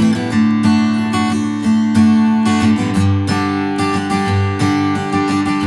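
Taylor Builder's Edition 324ce acoustic guitar strummed in a steady one-bar pattern, with a chord change about three seconds in.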